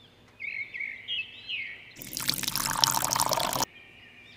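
High, chirping calls for the first couple of seconds, then water pouring and splashing for about a second and a half from a thin plastic tube into a small plastic tub of water, stopping suddenly.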